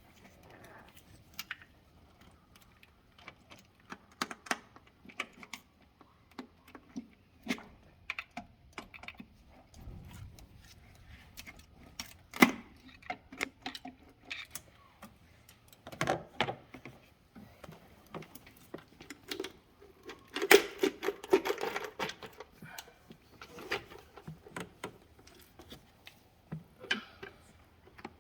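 Irregular clicks and clinks of small metal engine parts and hand tools being handled, with a louder clank about twelve seconds in and a busier run of clatter around twenty seconds in.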